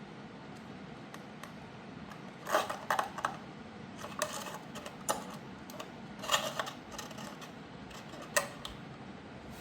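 A bottle being handled: short knocks and scraping clatters at irregular intervals, the loudest about two and a half seconds in, near six seconds and near the end.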